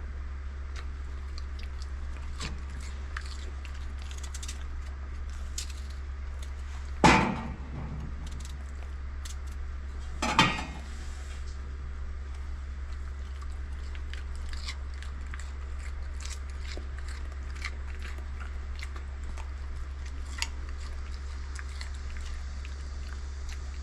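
Dog chewing and crunching pieces of fresh peach, a scatter of small wet clicks and crunches, with two louder brief sounds partway through. A steady low hum runs underneath.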